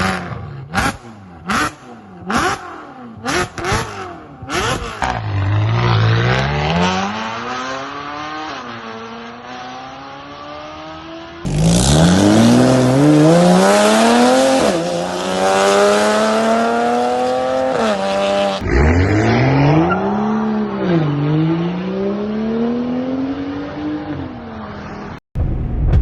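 Car engines revving through aftermarket performance exhausts. It opens with a run of quick throttle blips, then moves to longer revs that climb and drop back. The clips are spliced together with abrupt cuts, and the middle clip is the loudest.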